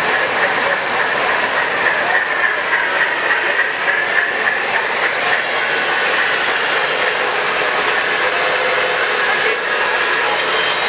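Model train running with sound: a steady, dense rush of running noise with a faint wavering tone through the first half.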